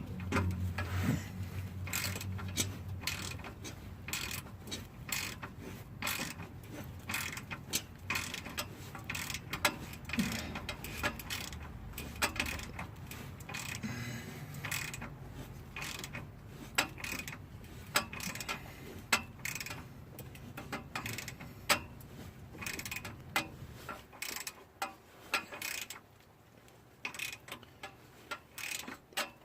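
Ratchet wrench clicking in repeated runs of strokes while a fastener on an exhaust leak repair is tightened.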